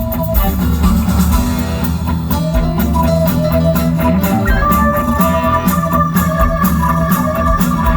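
Live rock band playing an instrumental passage: guitar over a steady drum beat, with organ, and a held note joining about halfway through.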